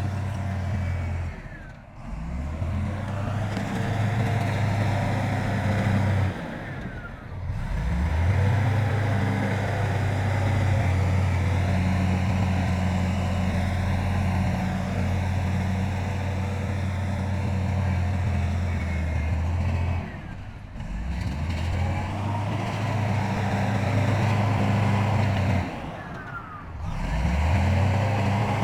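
Heavy diesel earthmoving machinery, a bulldozer or dump truck, running steadily. The sound drops away briefly about four times and picks back up each time.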